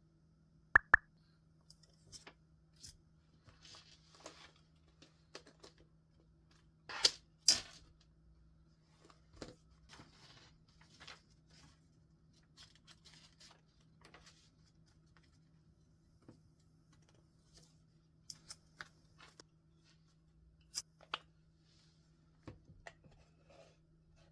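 Paper and stationery being handled on a desk: scattered light taps, clicks and rustles, with two sharp clicks about a second in and two louder paper swishes about seven seconds in. A faint steady hum runs underneath.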